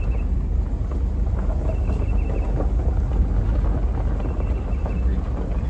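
Vehicle engine and road rumble heard from inside a slow-moving car, with wind noise on the microphone. A faint short high chirp repeats about every two seconds.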